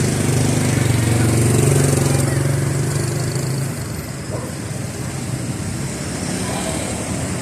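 A motorcycle engine running with a steady low hum that drops away a little past halfway, leaving the general noise of street traffic.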